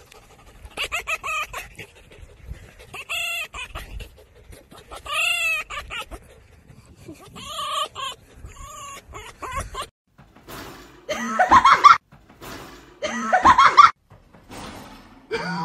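A series of animal calls: several fainter, rising-and-falling pitched calls in the first half, then three louder, harsher calls of about a second each in the second half.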